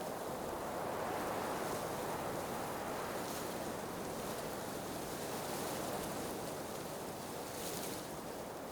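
Blizzard wind blowing steadily: a continuous rushing that swells and eases gently, with a few brief brighter hissing gusts.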